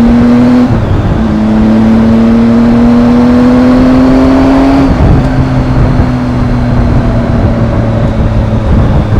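Triumph motorcycle engine pulling up through the gears: its note rises, breaks for a shift just under a second in, climbs again, and shifts once more about five seconds in before holding a steadier, lower note. Wind rushes over the helmet mic with the visor up.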